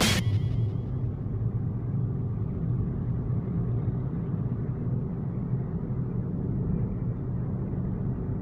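Steady low rumble of a road vehicle, an even drone with no rain hiss on top.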